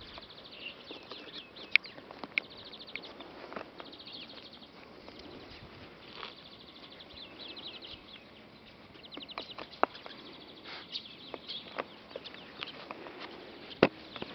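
Small birds trilling and chirping again and again, with a few sharp clicks, the loudest one near the end.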